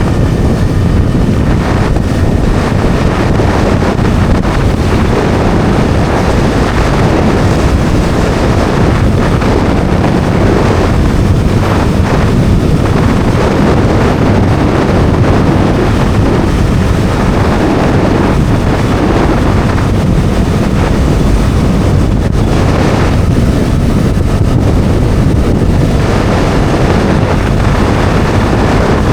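Bajaj Dominar 400's single-cylinder engine running steadily at road speed, with heavy wind noise buffeting the microphone.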